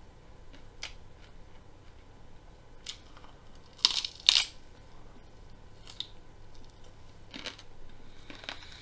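Raw broccoli being bitten and chewed: sharp crunches, the two loudest close together about four seconds in, with scattered smaller crunches before and after.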